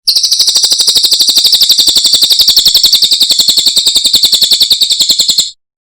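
Cililin songbird singing one long, fast, high trill of about eleven even notes a second. It starts abruptly and stops suddenly after about five and a half seconds.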